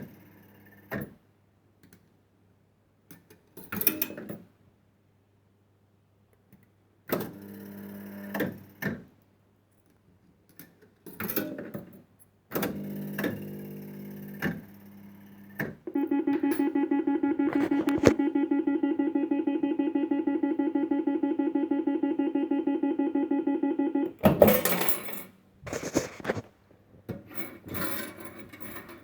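1970s penny-play fruit machine being played: short bursts of clicking and reel mechanism noise over a steady hum, then a buzzing tone pulsing fast and evenly, about nine pulses a second, for about eight seconds, then a clatter near the end.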